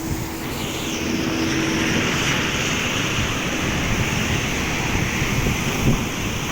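Heavy rain falling hard and steadily: a dense hiss over a constant crackle of drops hitting. A faint steady hum runs under it for the first two seconds.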